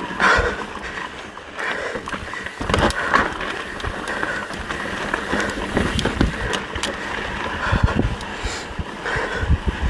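Mountain bike being ridden over rough rocky trail: tyre noise with irregular knocks and rattles from the bike, and wind on the microphone.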